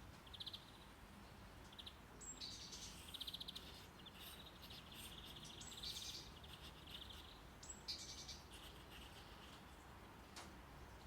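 Faint birdsong: a songbird repeats a short chirping, trilling phrase every couple of seconds over a low, steady brown-noise rumble.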